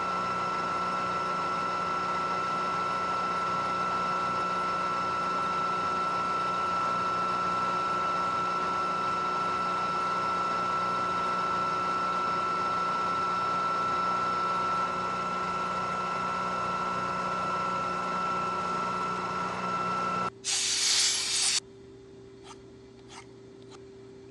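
Milling machine taking a finish cut in A2 tool steel with a four-flute end mill: a steady cutting sound with a high ringing tone. It stops about twenty seconds in, a short loud hiss follows, and the machine then runs on more quietly.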